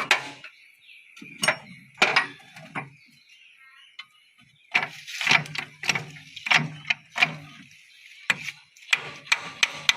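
Power tiller gearbox being shifted through its gears by hand: a series of irregular metal clunks and clicks as the shift fork slides and the gears engage.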